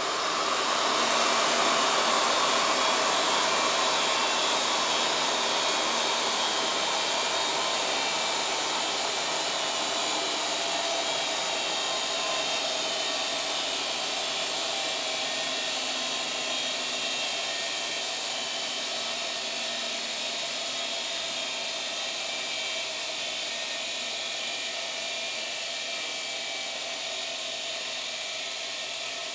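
Homemade ceiling-fan rig coasting down after its power is cut: a brushed vacuum cleaner motor and the belt-driven fan whirring with a steady hiss and whine that fades slowly as the heavy spinning mass winds down.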